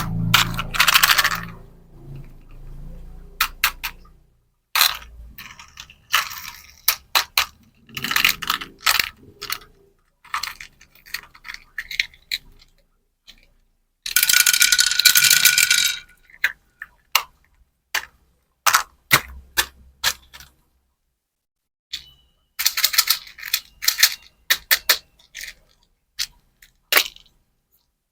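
Hands unboxing plastic-packaged candies and a candy toy: irregular sharp clicks, taps and rattles of small hard pieces, with a few seconds-long bursts of rustling packaging and short pauses between.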